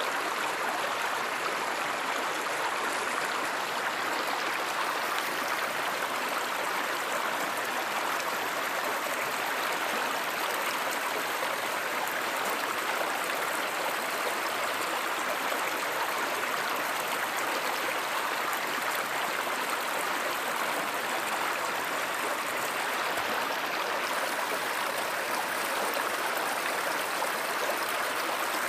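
Water of a stream or small river flowing, a steady even rush with no breaks.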